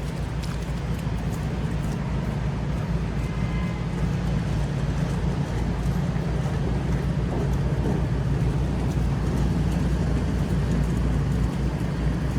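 City street traffic: motor vehicles running and passing, a steady low rumble.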